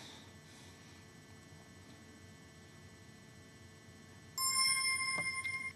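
Near silence for about four seconds, then a steady, high electronic beep tone about a second and a half long that starts and cuts off suddenly.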